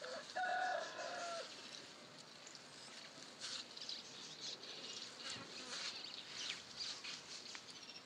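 Birds chirping in short scattered calls, with a held two-part call lasting about a second near the start.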